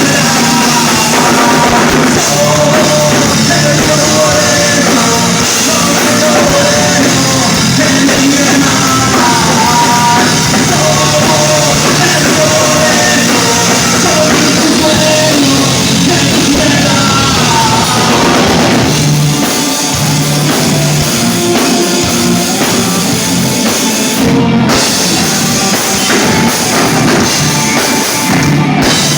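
Live rock band playing loud, with drums, amplified instruments and a lead vocal. Singing runs through most of the first two thirds, then gives way to a drum-driven instrumental stretch with two short breaks near the end.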